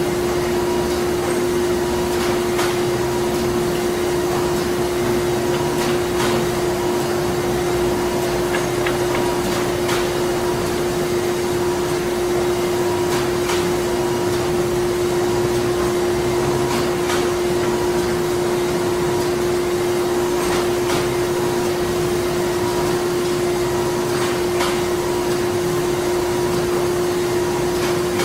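Printing-plant machinery running: a steady mechanical drone with a strong hum, under which faint clicks come about every three to four seconds.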